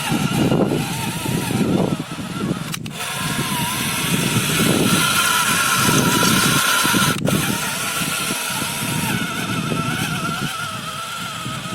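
Tractor running under test, its newly re-geared gearbox driving, with a steady wavering high whine over an uneven low rumble. It cuts out very briefly twice, about 3 and 7 seconds in.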